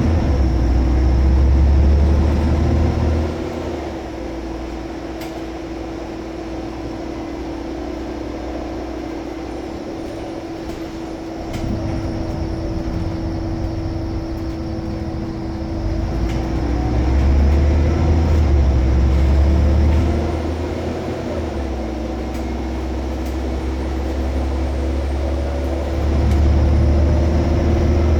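Scania L94UB Omnicity single-deck bus's diesel engine working under load and easing off in turn. It pulls hard for the first few seconds, runs quieter for about eight seconds, then pulls hard twice more with rising pitch. A steady whine runs underneath throughout.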